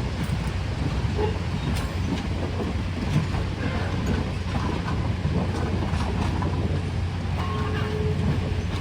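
Train rolling past: a steady low rumble with scattered clicks from the wheels on the rails.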